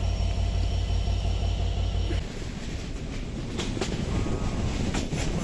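Passenger train running: a steady low rumble with faint steady tones, which changes abruptly about two seconds in to a quieter, rougher rolling noise with a few sharp wheel clacks.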